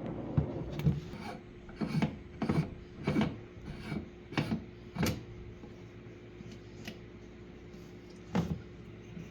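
Irregular knocks and scraping rubs from things being handled, about ten in the first five seconds and one more near the end, over a steady low hum.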